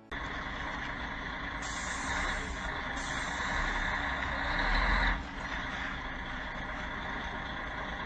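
Steady road and engine noise of a moving vehicle, picked up by a dash cam. It builds to its loudest about five seconds in, then drops suddenly.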